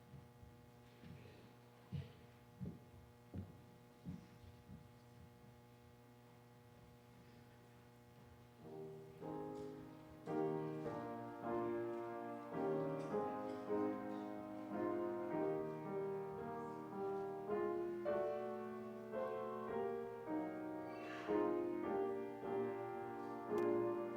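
A piano starts playing a hymn introduction, in steady chords, about nine seconds in. Before it there is a quiet stretch with a few soft knocks.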